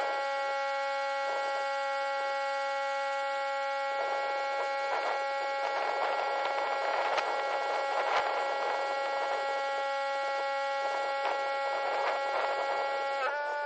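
A steady hum of several held tones, with a hissy noise swelling in the middle and a brief dip in pitch near the end.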